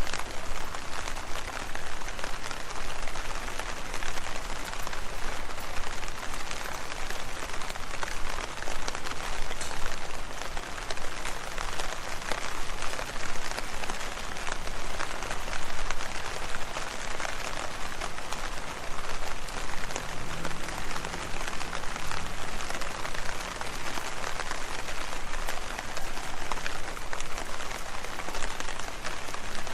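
Steady rain falling on leaves: an even rush of rain dotted with many separate drop hits, unchanging throughout.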